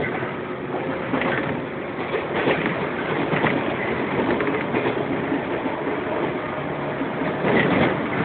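Running noise inside a JR 115 series resistance-controlled electric train car in motion: a steady rumble of wheels and car body with scattered clicks as the wheels cross rail joints.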